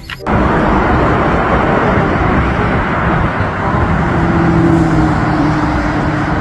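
Semi truck engine running steadily, a dense rumble with a faint low hum joining about four seconds in.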